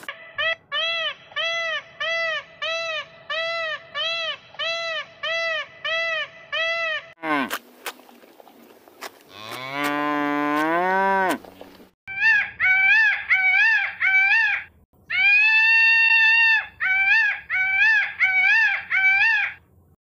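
A peacock gives a run of repeated honking calls, about two a second. About ten seconds in a cow moos once, a long call rising in pitch. A second, louder run of peacock calls follows, with one longer call in the middle.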